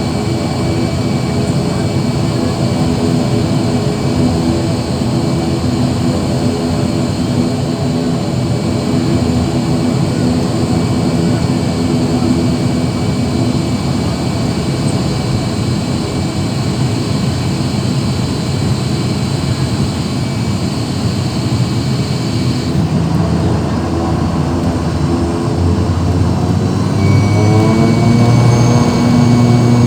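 ATR 72's twin turboprop engines (Pratt & Whitney Canada PW127) running with a steady, many-toned propeller drone, heard inside the cabin. Near the end the pitch rises and the sound grows louder as the engines power up.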